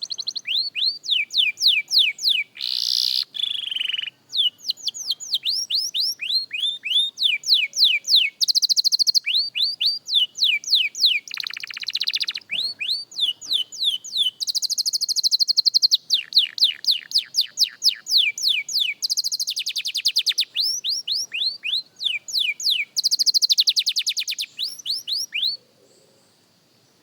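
Young canary singing a long practice song of repeated notes that sweep downward. Phrases of about three or four sweeps a second alternate with several fast trills, and the song stops shortly before the end.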